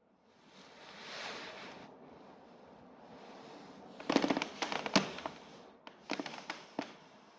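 A hiss lasting about a second and a half, then two short bursts of rapid clattering clicks and knocks, like small metal parts and tools being handled.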